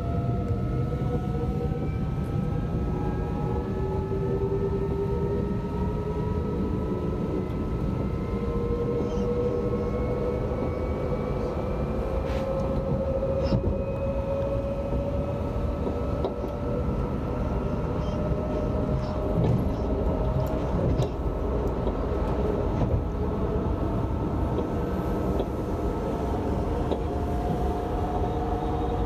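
Alstom Régiolis multiple unit running, heard from inside the coach: a steady rumble of wheels on rail under the whine of the electric traction motors, which rises slowly in pitch as the train picks up speed. A few faint clicks and knocks come through the rumble.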